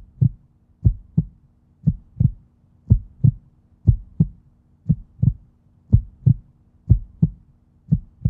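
Heartbeat sound effect: a double thump, lub-dub, repeating steadily about once a second over a faint steady low tone.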